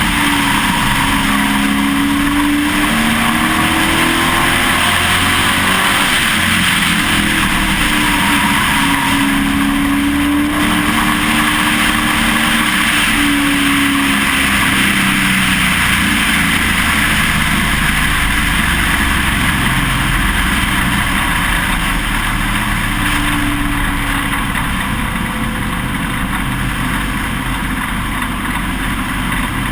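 Pro Truck race truck's engine heard from on board, running hard with its pitch rising and falling every few seconds as the throttle comes on and off, under a steady rush of wind and road noise. It eases off a little in the last several seconds.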